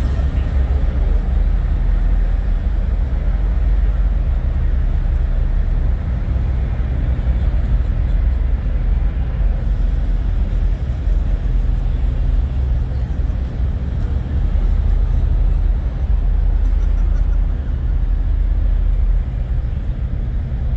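Idling semi-truck diesel engines: a steady, loud low rumble with an even drone, and faint crowd chatter mixed in.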